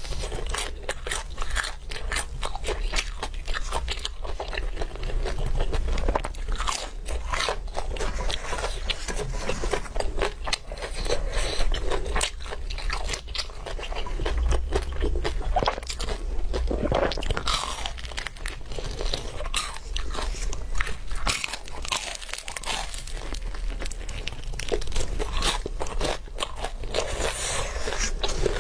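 Close-miked mouth sounds of a person biting and chewing glazed meat: a dense, continuous run of crisp, wet crunching and clicking.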